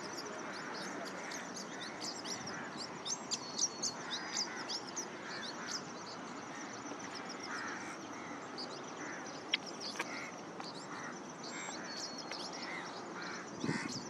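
Wild birds calling: many quick, high chirps and twitters from small birds, with runs of softer, lower calls repeated a few times a second. A single sharp click about ten seconds in, over a steady outdoor hiss.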